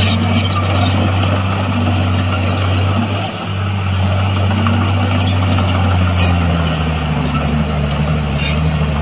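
Heavy diesel construction machinery engine running steadily under load, its note dropping lower a little after six seconds.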